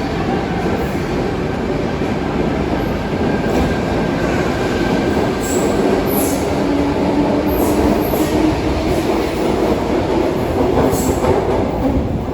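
Electric suburban train running through an underground station: a steady, loud rumble with a low motor hum and a few brief high-pitched wheel squeals.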